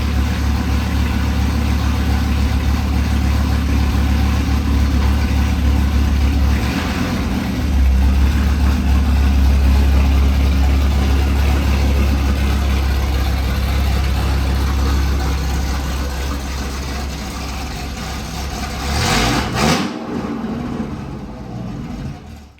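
1999 Dodge Viper RT/10's 8.0-litre V10 running at idle through a Corsa cat-back exhaust with Belanger high-flow cats: a steady, deep exhaust burble that gets a little louder about 7 seconds in and then slowly eases. About 20 seconds in there is a short burst of noise, and then the engine shuts off.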